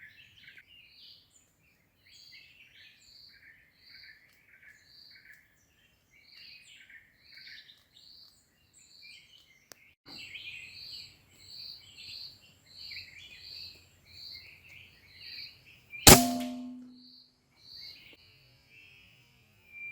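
Birds in a fruiting tree calling over and over, short notes about once a second. About sixteen seconds in comes a single sharp shot with a brief ringing tone, fitting an air rifle being fired at the birds.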